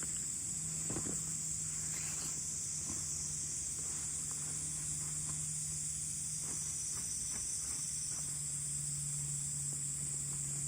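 Steady high-pitched chorus of insects trilling through a hot summer evening, with a low steady hum beneath and a few faint scattered ticks and knocks.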